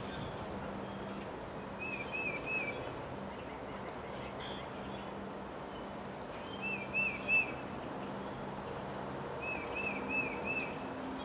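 A songbird repeating a short phrase of three or four quick rising-and-falling chirps three times, over a steady rush of wind.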